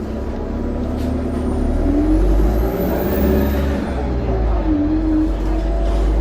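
Bus diesel engine pulling under load, with a loud, high turbocharger whistle that climbs in pitch for about three seconds, falls away about four seconds in, and starts rising again near the end. The engine note rises and grows heavier in the middle.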